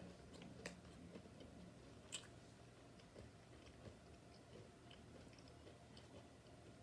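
Near silence with faint scattered clicks and small crunches; the sharpest click comes about two seconds in.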